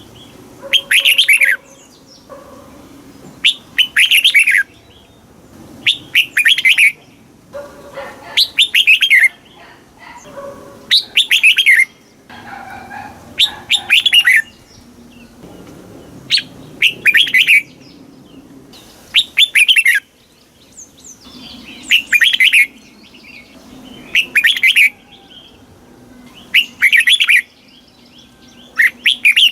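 Red-whiskered bulbul singing: short, bright chirping song phrases repeated about every two seconds.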